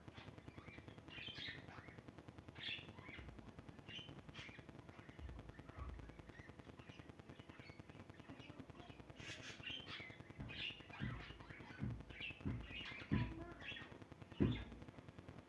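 Small cage birds chirping in short, scattered calls, with a series of dull knocks or thumps in the second half, the loudest near the end.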